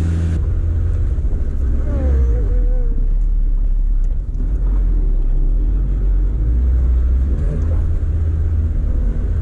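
Land Rover Defender 130's engine heard from inside the cab, a steady low drone as it pulls the heavily loaded truck uphill on a dirt track, the note shifting slightly a couple of times.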